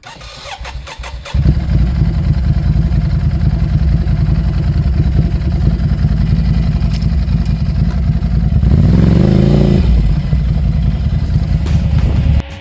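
Motorcycle engine: a few clicks, then about a second in the engine comes in loud and runs steadily, with a short rev up and back down near the end.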